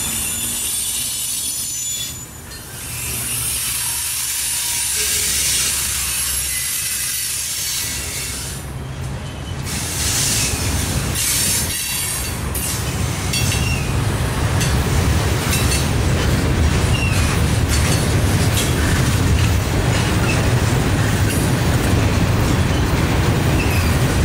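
Freight cars of a manifest train rolling past on steel wheels: a steady rumble and hiss of wheels on rail with faint high-pitched wheel squeal, and sharp clicks and clanks as the cars cross the rail joints. The low rumble grows heavier about halfway through.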